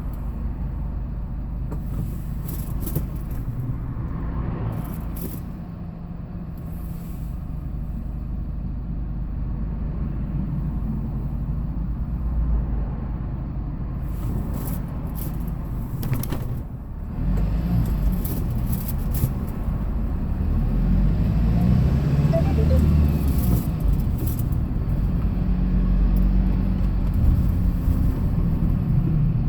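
Hyundai Porter II box truck driving: steady engine drone and road rumble. It grows louder from a little past halfway.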